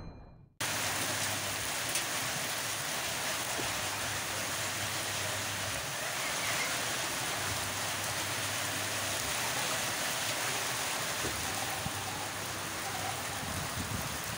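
Heavy stormy rain pouring steadily onto a crop field and wet dirt ground, an even hiss that starts suddenly about half a second in.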